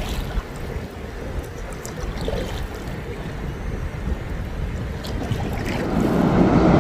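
Wind buffeting the microphone over water sounds from an open canoe being paddled, with a few faint splashes. A louder rush of water builds near the end: river water pouring over open weir gates at about three times the usual flow.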